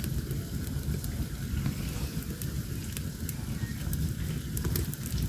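Open fire crackling, with scattered sharp crackles over a steady low rumble of flames, as a plucked rooster is singed to burn off its feather stubble.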